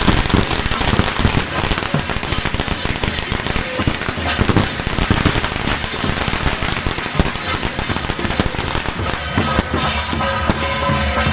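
A string of firecrackers crackling densely and irregularly, with procession music underneath. Near the end the crackling thins and the music comes forward.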